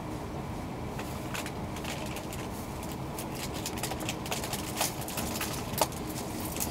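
Steady low rumble of an E2 series Shinkansen train running, heard inside the passenger cabin, with scattered light clicks and ticks over it, two sharper clicks near the end.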